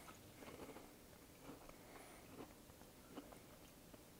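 Faint chewing of a piece of crumbly, crystalline erythritol caramel, with a few soft, irregular crunches.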